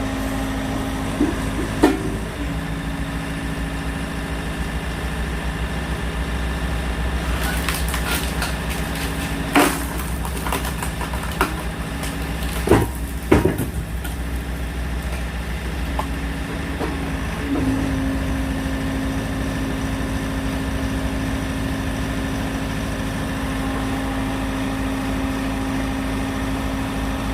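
Farm machine's engine running steadily as it drives a homemade hydraulic log splitter. Its note shifts about two seconds in and again near eighteen seconds as the hydraulics take and release load. A few sharp knocks come in the middle, as the log is split.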